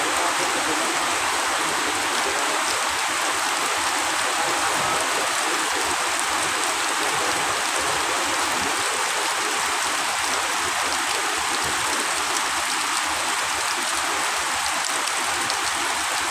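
Steady rain falling: a dense, even hiss of water that keeps up without a break.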